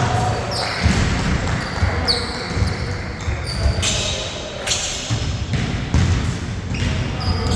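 A basketball bouncing on the court during play, a dull thump every half second to second, mixed with short high squeaks of sneakers and a few sharp slaps.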